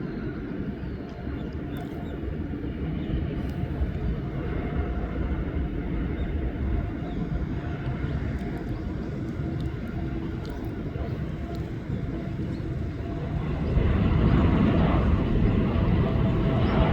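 Boeing 787-9 airliner's jet engines at takeoff power, a steady low rumble with a faint hum, growing louder about fourteen seconds in.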